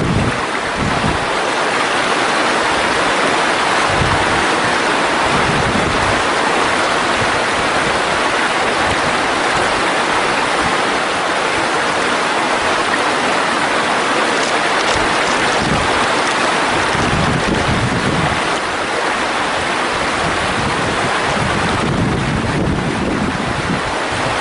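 Mountain stream water rushing steadily over rocks, a loud continuous rush. A few brief low rumbles of wind on the microphone come and go.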